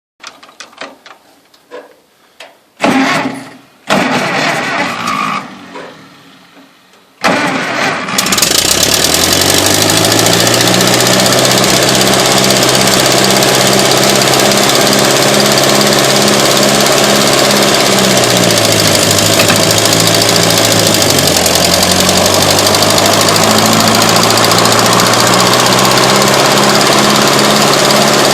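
Tractor engine started after a couple of short cranking attempts, catching at about seven seconds and then running steadily. Its speed sags for a few seconds past the middle and comes back up.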